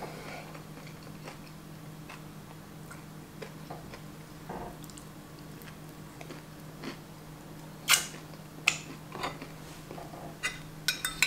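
Close-miked chewing of bacon with small, scattered mouth clicks over a low steady hum, then from about eight seconds in a few sharper clinks of a knife and fork against a plate.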